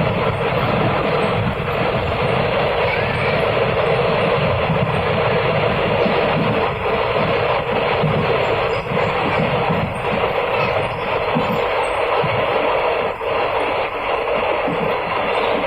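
Steady rush and rumble of a moving passenger train heard from on board, with wheel and wind noise holding at an even level and dipping only briefly now and then.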